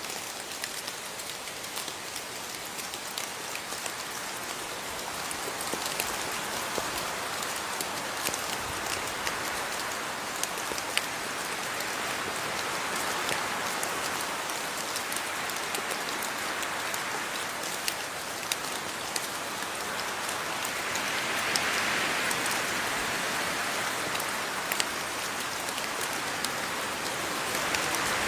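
Steady rain falling on a surface, a dense hiss with many separate drops ticking through it. It swells gently a few times and is at its heaviest near the end.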